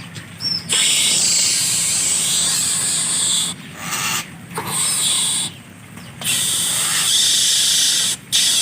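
Harsh, loud hissing from a bird, coming in long bursts of a few seconds each with short breaks between.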